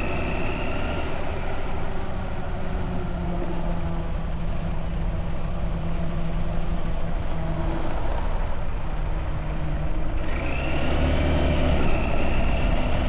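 Motorbike engine running steadily while riding, with road and wind rumble.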